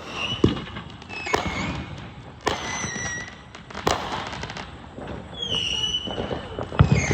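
Consumer fireworks going off: a run of sharp pops and crackling, with a few short high whistle-like tones among them.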